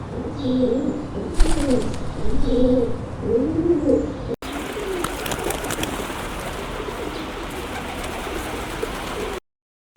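Pigeon cooing: a run of low, rolling coos that rise and fall, repeated for about four seconds. Then, after an abrupt cut, a steady hiss of background noise with only faint traces of calls.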